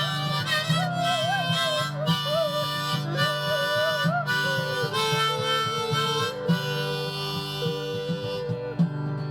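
Harmonica playing a melody over a strummed acoustic guitar, the instrumental intro to a country-style song.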